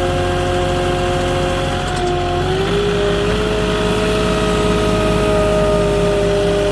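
Moffett truck-mounted forklift's engine running steadily, its pitch rising about two and a half seconds in as it speeds up, then holding at the higher speed.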